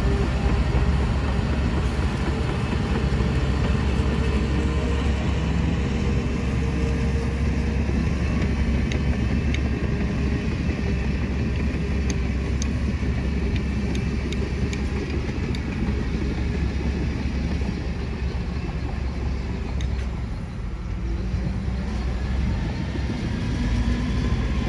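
Heavy diesel construction machinery running steadily under load, easing off briefly near the end, with a few faint clicks of metal.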